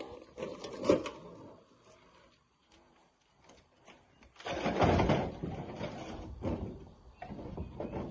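Rocks scraping and clattering as they are handled, with a louder rush of sliding rock about four and a half seconds in that dies away over a couple of seconds.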